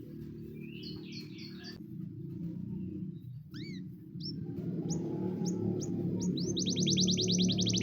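Canary singing: scattered high chirps and short upswept notes, then a fast rolling trill of rapid repeated notes near the end, over a low background that grows louder.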